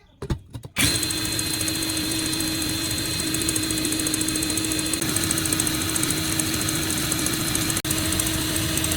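Electric power-tool motor switched on after a few clicks and running at a steady speed with a constant hum and high whine, with a brief dropout near the end.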